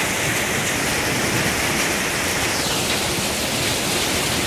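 Heavy rain mixed with hail coming down hard, a steady dense hiss; a little past halfway the hiss turns slightly lower in tone.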